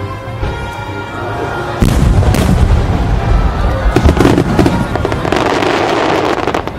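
Fireworks going off over music: after a couple of seconds of music, loud booms and crackling burst in and keep up densely, dropping away near the end.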